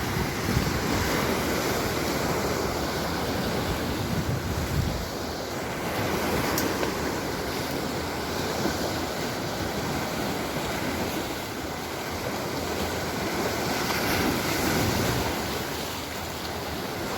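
Mediterranean surf: waves breaking and washing onto the shore, the noise swelling and fading every few seconds, pushed up by a light breeze. Wind buffets the microphone with low rumbles.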